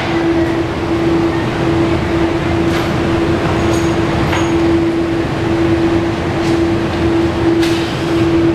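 Steady mechanical hum carrying one constant tone that drops out briefly now and then, with a few faint clicks.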